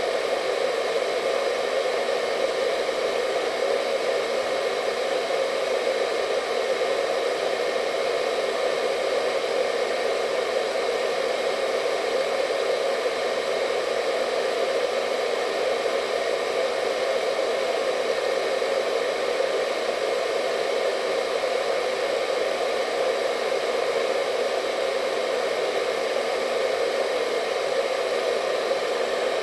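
Hair dryer running steadily: an even whooshing noise with a faint steady whine, unchanging throughout.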